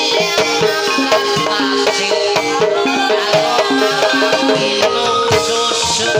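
Javanese gamelan music for ebeg (kuda kepang) dance: struck pitched percussion plays a repeating melody in quick, even notes over drums.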